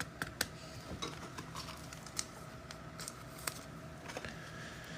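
NFL trading cards being handled and sorted by hand, with scattered soft clicks and taps of card edges against each other and the table.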